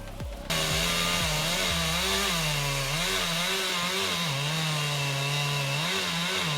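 Chainsaw running at high revs, its pitch dipping and rising again and again as it cuts. It starts abruptly about half a second in.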